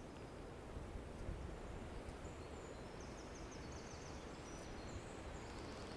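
Wind blowing, heard as a steady low rumble, with faint high-pitched chirping from about two seconds in.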